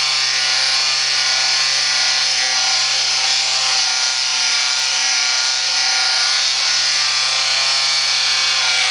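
A milling-machine table being power-ground. The motor runs at a steady pitch under an even, rough abrasive hiss, with no change in speed or load.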